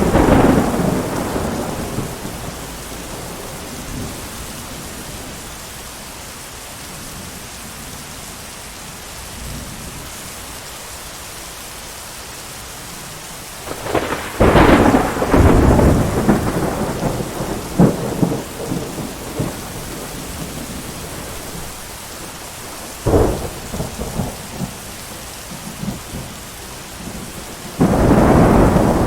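Steady heavy rain with thunder. A clap fades away at the start. About halfway through comes a long rolling crash with sharp cracks in it, then a single short crack a few seconds later, and another burst of thunder near the end.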